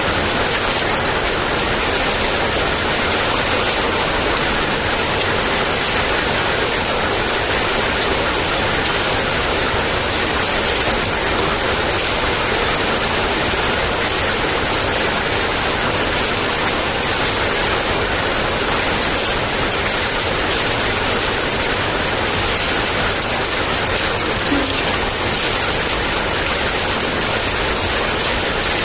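Heavy downpour of rain, a steady, even hiss with no breaks and no thunder.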